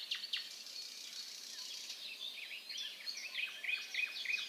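Birds chirping: many short, high calls over a faint hiss, a few quick downward chirps at the start and a busier run of calls in the second half.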